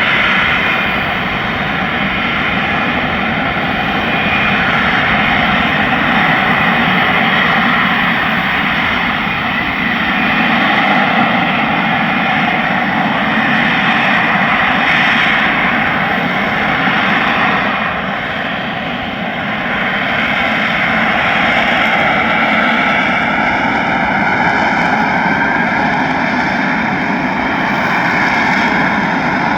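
US Marine Corps F-35B's jet engine running loud and steady overhead, a dense rushing noise with high whining tones in it. The sound eases slightly about two-thirds of the way through, then builds again.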